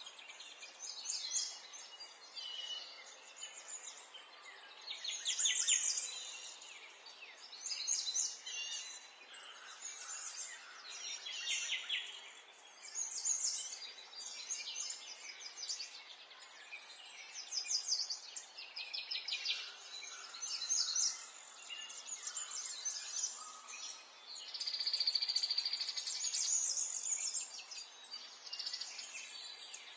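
Several songbirds singing and calling in overlapping phrases, many of them rapid trills, one after another throughout, over a faint steady background hiss.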